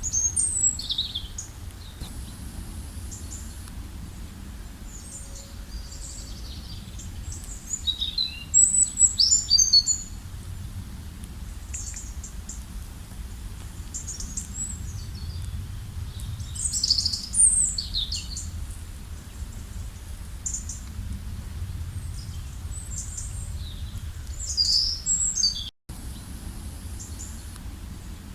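Birds chirping and calling in scattered high-pitched bursts over a steady low rumble. The sound cuts out for an instant near the end.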